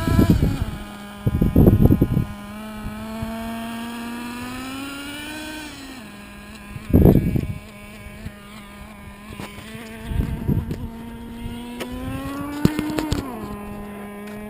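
Traxxas T-Maxx's small 2.5 nitro engine running at light throttle during break-in: a steady high buzz that rises gently in pitch twice, around four to five seconds in and again near the end, then drops back to idle. Short noisy rushes come about two, seven and ten seconds in.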